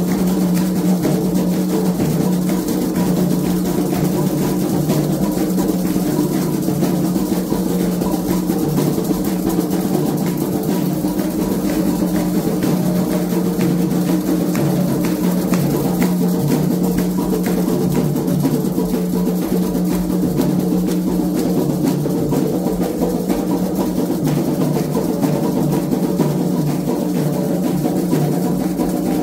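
Atabaque hand drums and percussion of a Candomblé ceremony playing a continuous, loud rhythm.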